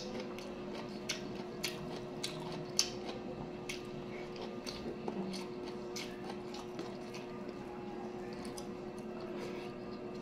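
Close-miked eating sounds: wet chewing and smacking clicks of a mouthful of rice and sautéed cabbage, eaten by hand, coming at irregular intervals over a steady low hum.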